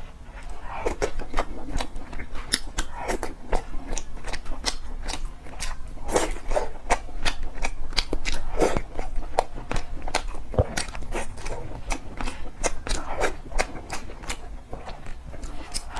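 Close-miked eating: wet chewing and lip-smacking, a quick run of sharp moist clicks several times a second.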